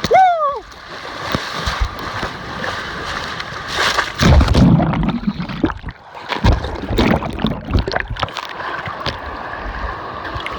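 A short yell that rises and falls, then people splashing through cold lake water as they wade in and dunk, in uneven surges.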